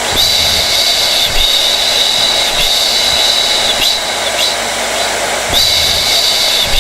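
Hair dryer running steadily: a constant rush of blown air with a high motor whine over it, the whine wavering briefly every second or so.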